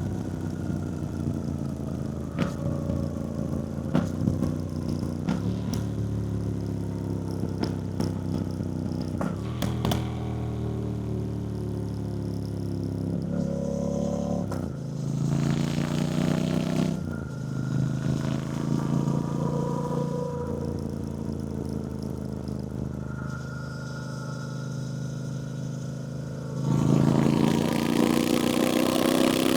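2024 Triumph Bonneville T120's 1200 cc parallel-twin engine heard from on the moving bike. The engine note falls away for long stretches as the throttle eases off, picks up briefly a little past midway, then revs up loudly under acceleration near the end, with a few sharp clicks in the first third.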